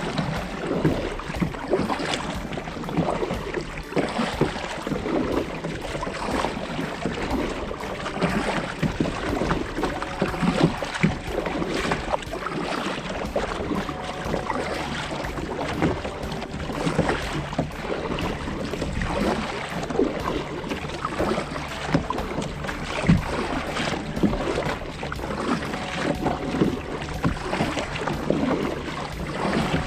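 Water splashing and lapping around a kayak as it is paddled, an irregular crackling wash of water sound.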